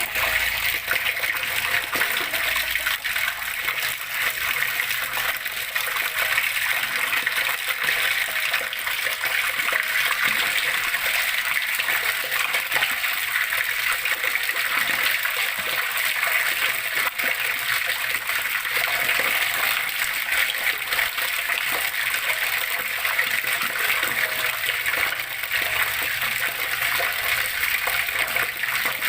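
Water flowing and splashing in a steady, unbroken rush.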